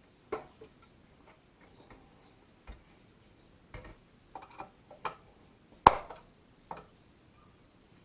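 Irregular clicks and small knocks, about a dozen at uneven intervals with the loudest a little before six seconds in: hard parts of an old car radio being handled during restoration work.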